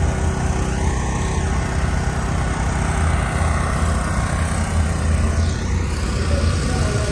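Steady low rumble of vehicle engines running, with no single event standing out.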